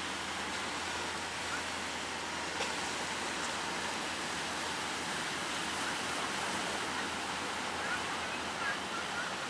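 Steady wash of sea surf and breaking waves, an even noise without a break, with a few faint high chirps over it.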